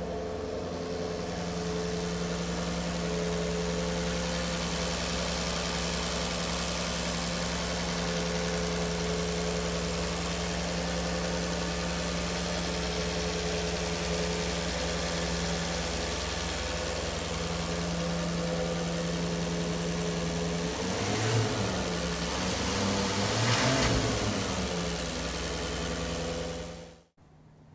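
2010 Maserati Quattroporte Sport GTS's 4.7-litre V8 idling steadily on a stone-cold engine just after a cold start. Near the end it revs up and down briefly twice, then the sound cuts off suddenly.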